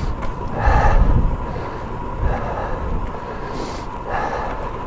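Wind noise on the camera's microphone and tyre road noise from a road bike being ridden, swelling louder about a second in and again near the end.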